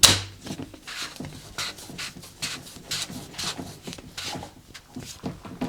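Vacuum cleaner motor switching off, its hum dying away at once, followed by scattered light clicks and knocks.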